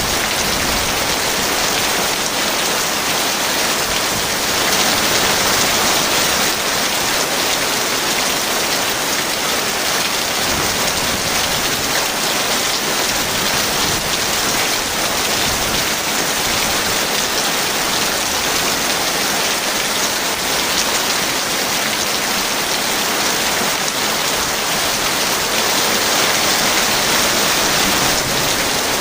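Heavy rain falling steadily, a dense, even hiss of drops with no thunder standing out.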